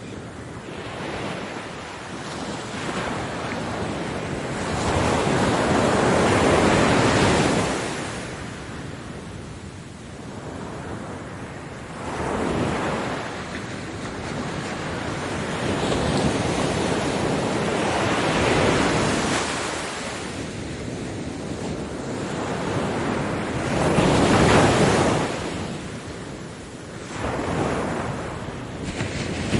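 Ocean waves breaking on a beach, the surf rising and falling in surges every five or six seconds, the loudest crash about three-quarters of the way through.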